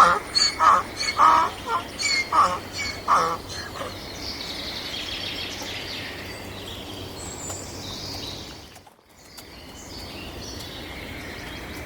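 Domestic fowl calling in a quick run of short, pitched calls, about two a second, for the first three or four seconds. Then a steady, fainter farmyard background with small birds chirping high, broken by a brief dropout a little before nine seconds in.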